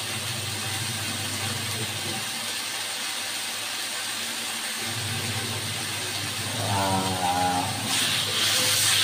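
Spice paste sizzling as it fries in a wok, a steady hiss over a low hum. Near the end the sizzle turns brighter and louder as a spatula stirs the paste.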